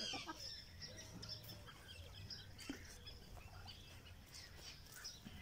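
Faint birdsong: scattered short, high chirps of small birds over a quiet outdoor background.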